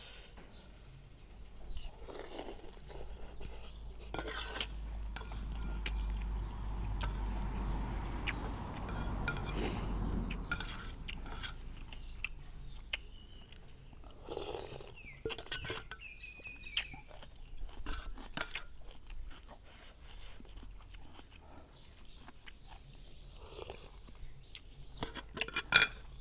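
A person eating a bowl of noodle soup close to the microphone: chewing, with many small clicks and knocks of a spoon and bowl.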